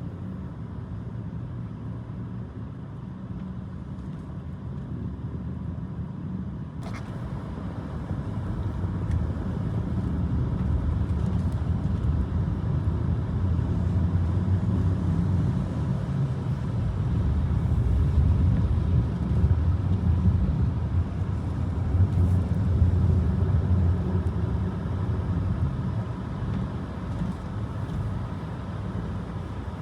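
Motor vehicle running, a steady low rumble that builds up over several seconds, peaks around the middle and eases off toward the end.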